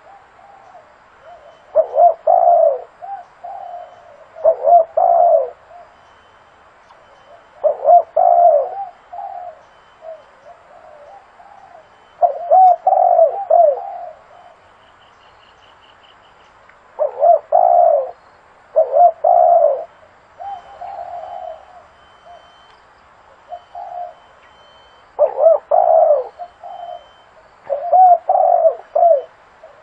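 Spotted dove cooing, a decoy call for luring doves. Its phrases of several low coos repeat every few seconds, with softer coos between them.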